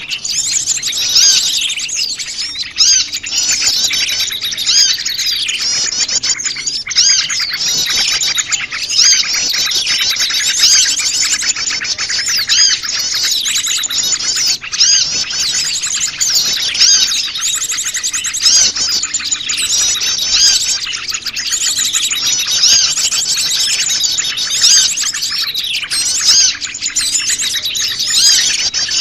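Dense, busy chorus of many small wild birds chirping and twittering at once, overlapping calls and trills with no pause: a mixed-species bird-lure recording used to draw small birds in.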